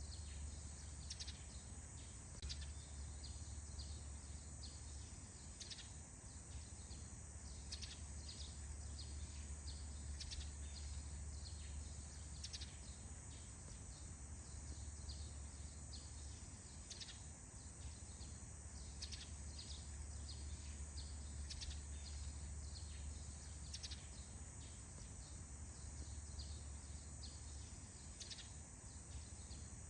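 Morning forest ambience: scattered short bird chirps, irregularly spaced, over a steady high insect-like hiss and a low rumble that comes and goes.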